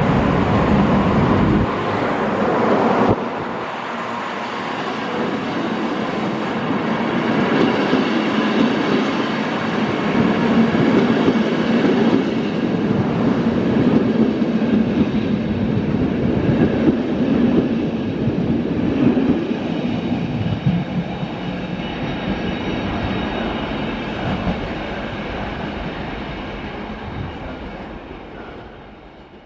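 FS E444R electric locomotive and its Trans Europ Express coaches rolling past, with a steady rumble of wheels on rail. The sound is loudest in the first three seconds as the locomotive goes by, drops about three seconds in, then fades over the last few seconds as the train draws away.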